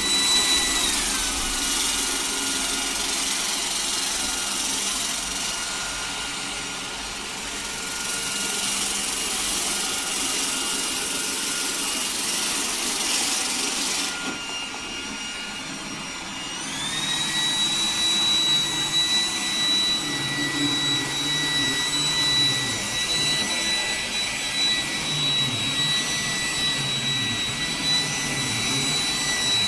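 iRobot Roomba 105 Combo robot vacuum running, its suction fan giving a steady high whine over a rushing hiss. The whine drops to a lower pitch about a second in and climbs back to its first, higher pitch about halfway through, as the suction speed changes.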